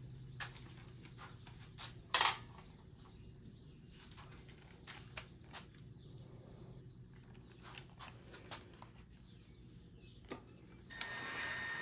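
Faint clicks and taps of parts and tools being handled, with one sharper knock about two seconds in. Near the end a steady whirring with a thin high whine starts, the motor of a power tool.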